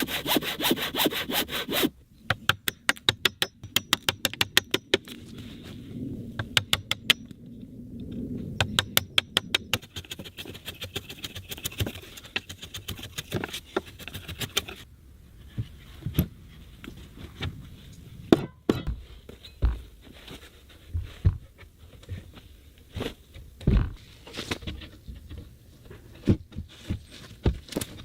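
Hand saw cutting wood in several runs of quick, even strokes, followed by scattered wooden knocks and taps as timber is worked and set in place.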